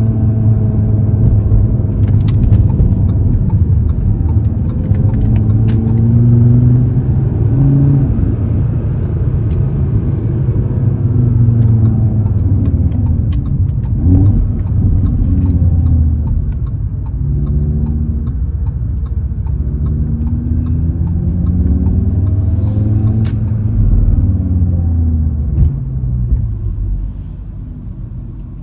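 A 2018 Audi RS3's turbocharged five-cylinder engine and exhaust on the move, loud and low, its pitch rising and dropping again and again as the car accelerates through the gears. It grows quieter near the end.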